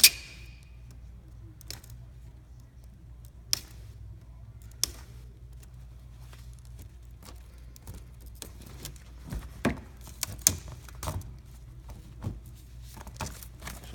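Scattered clicks and light knocks of the parts of a disassembled LCD monitor being handled: a sharp click at the start, a few more spaced out, then a busier run of taps near the end, over a steady low hum.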